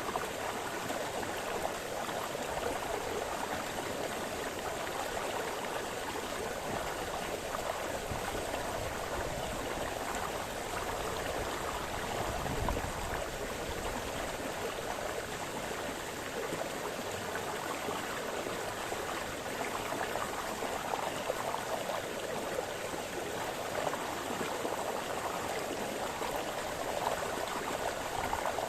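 Small forest brook splashing and babbling over stones, a steady rushing flow with constant small gurgles.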